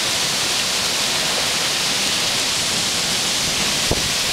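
Torrential rain and wind of a severe thunderstorm microburst, a loud steady rush. A single short knock comes near the end.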